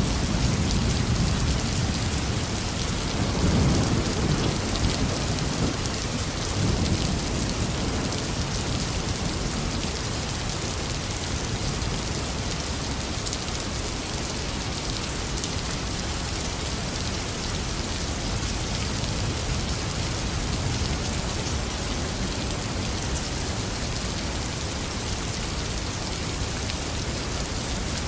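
Heavy rain falling steadily, with thunder rumbling low in the first several seconds, loudest about four seconds in, then fading away under the rain.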